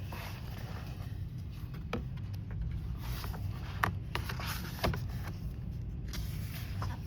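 A steady low hum with a few faint, short taps, about two, four and five seconds in.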